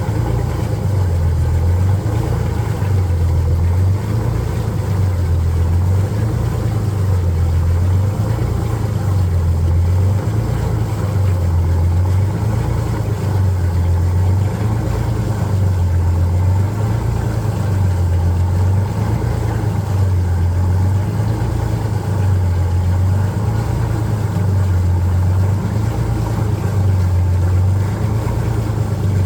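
Detroit Diesel 6-71TI two-stroke inline-six diesel idling shortly after a cold start without a block heater. It is a steady low drone that swells in a slow, even rhythm. The engine's compression is in the 350-375 range and it is due for a rebuild.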